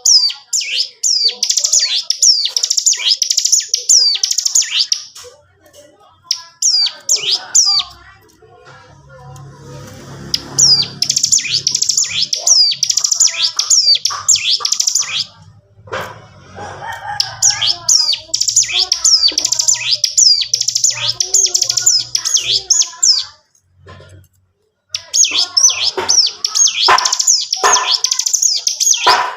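Ciblek gunung songbird singing in long bouts of rapid, high, downward-sweeping chirps, pausing briefly between bouts; the continuous 'ngebren' delivery of a bird in full song.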